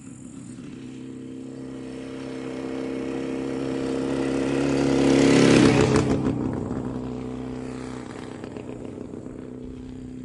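A motor vehicle passing close by, growing louder to a peak a little past halfway and then fading. Under it runs a steady engine hum.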